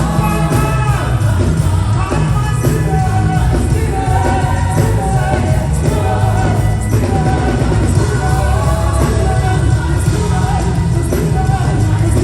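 Live gospel worship music: a band with a strong, steady bass line under voices singing.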